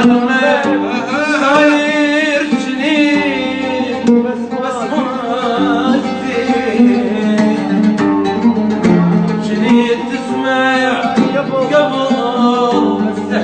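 An oud playing, with a voice singing long, wavering notes over it.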